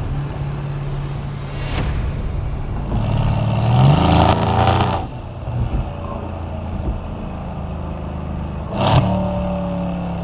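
Mercedes-AMG C63S's twin-turbo V8 running at low revs, rising in pitch as it revs up about four seconds in, with a short loud burst about nine seconds in.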